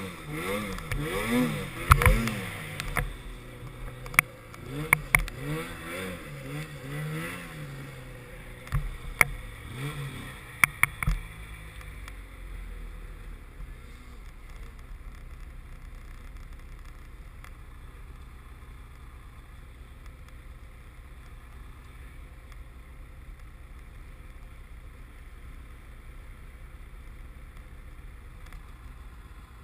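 Snowmobile engine revving up and down repeatedly, with several sharp knocks and clatters, then dropping away about eleven seconds in, leaving a steady low rumble.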